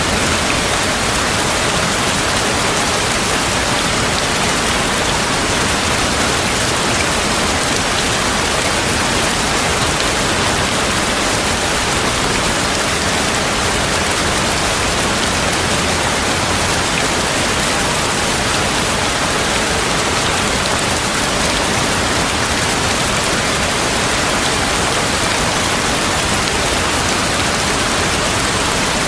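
Steady heavy rain falling and pattering on surfaces, an even hiss with no thunder.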